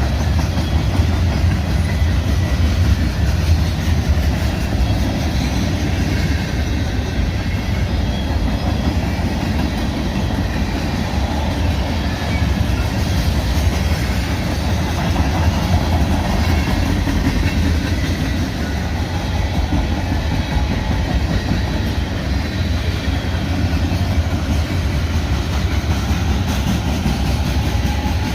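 Freight train's cars rolling past, with a steady, loud rumble of steel wheels on the rails.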